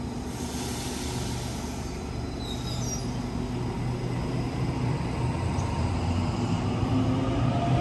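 Electric suburban passenger train at a station platform: a steady low rumble that slowly grows louder.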